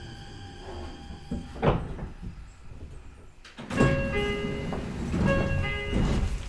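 Meitetsu 4000 series train stopped at a station with its electric sliding passenger doors opening. There is a sharp hiss-like sound about two seconds in. From just before the four-second mark, a louder stretch of door movement comes with short, repeated steady tones.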